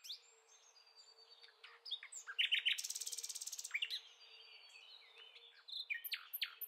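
Small songbirds chirping and singing in short, high calls and whistles, with a fast run of rapidly repeated notes from about two and a half seconds in. The sound is thin, with no low end.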